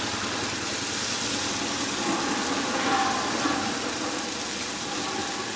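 Spice paste and slit green chillies sizzling steadily in hot mustard oil in a kadai, stirred with a wooden spatula.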